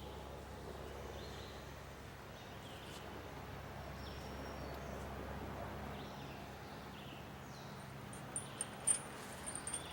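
Songbirds chirping outdoors, short repeated calls about once a second, over a faint low background hum. Near the end, a few sharp, high clicks.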